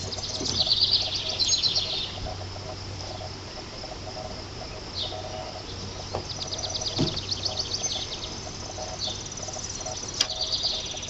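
Outdoor birdsong and insects: two rapid high trills, one near the start and one just past the middle, over a faint steady chirping of insects.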